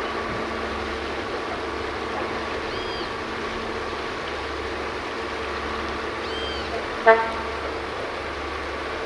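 Tren de las Sierras railcar running with a steady drone, giving one short horn toot about seven seconds in.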